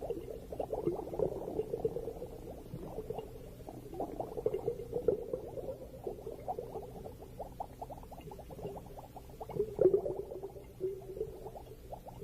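Bubbling and gurgling underwater, coming in uneven clusters of crackly pops, with the loudest cluster near the end.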